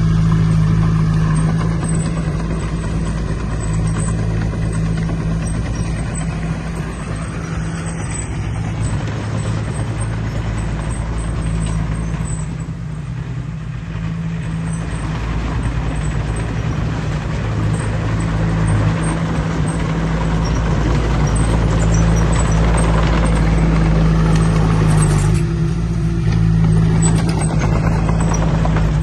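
Heavy diesel engine of earthmoving equipment running steadily under load, with a deep, even engine note whose pitch changes near the end.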